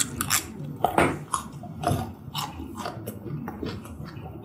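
Close-miked chewing: a person bites into a piece of food from a bowl of malatang and chews it, with irregular mouth clicks and smacks.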